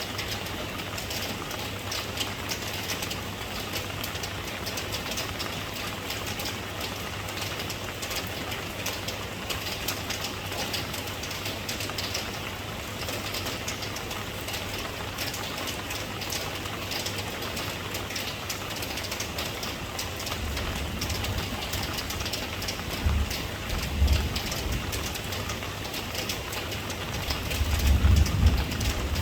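Steady rain falling, a dense patter of drops. From about two-thirds of the way in, a deep low rumble joins it and swells a few times, loudest near the end.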